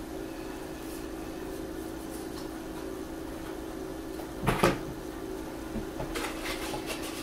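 Quiet handling of paper and craft supplies on a tabletop: one sharp knock about four and a half seconds in, and a few soft rustles near the end, over a steady low hum.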